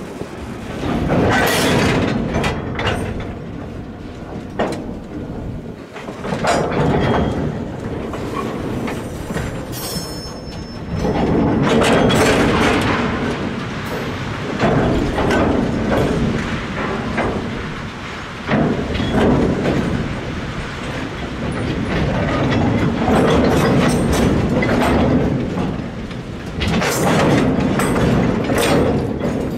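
Train of steel hopper wagons rolling past close by on 900 mm narrow-gauge track. The wheels clatter and click over the rail joints, swelling louder every few seconds.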